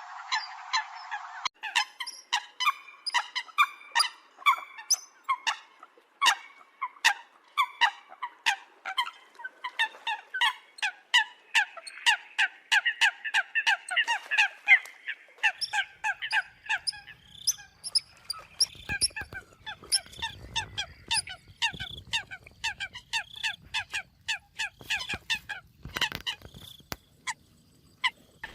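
Eurasian coots calling: a rapid run of short, sharp, honking notes, two to three a second, some faint and some close.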